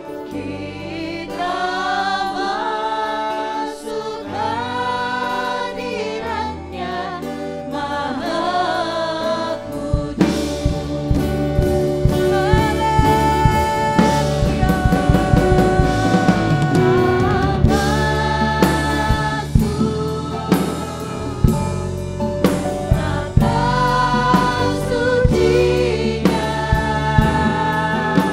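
Worship band playing a praise song, with a lead singer and backing voices. A drum kit comes in about ten seconds in and keeps a steady beat.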